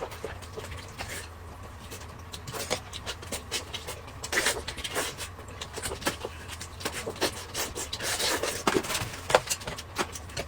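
Eating and food-handling noises: irregular clicks, scrapes and rustles, with a few louder bursts around the middle and near the end.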